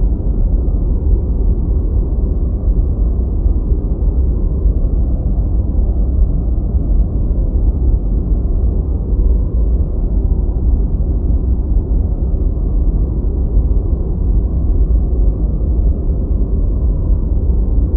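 Deep white noise: a steady, low, muffled hiss with its weight in the bass and almost nothing high-pitched.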